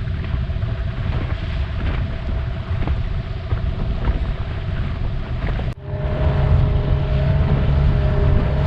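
Boat motor running steadily under way, a low rumble with a steady hum over it and wind on the microphone. The sound breaks off for an instant nearly six seconds in and resumes louder.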